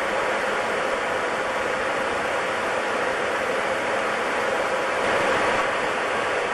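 Steady rushing noise inside a jet airliner's cabin in flight: engine and airflow noise, even and unchanging.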